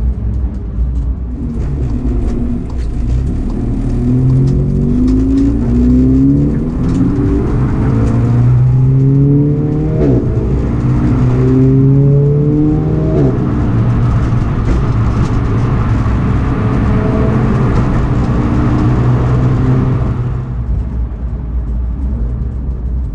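Race car engine accelerating through the gears: the pitch climbs, drops sharply at upshifts about ten and thirteen seconds in, then holds a steady cruise before the engine eases off near the end.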